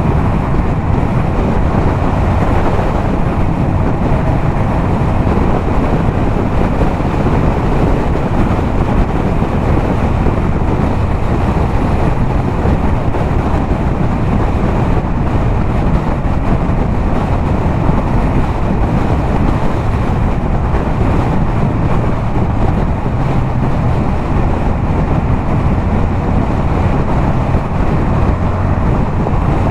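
Yamaha MT-07's parallel-twin engine running through a LeoVince aftermarket exhaust, holding steady at highway cruising speed. Heavy wind rush on the microphone runs under it.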